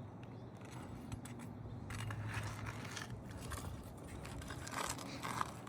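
Scraping and clicking of a hand tool being worked under brittle roof shingles while searching for a hidden nail, with two longer scrapes, about two seconds in and again near the end.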